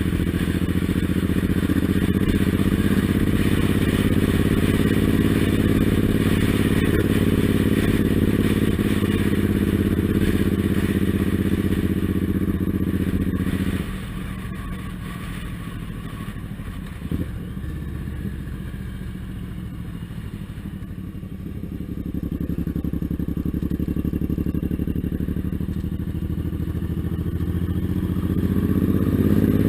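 Suzuki Intruder M1800R's big V-twin engine running under way. About halfway through it suddenly goes quieter as the throttle is shut, with a single knock a few seconds later, then picks up again and is back to full pull near the end.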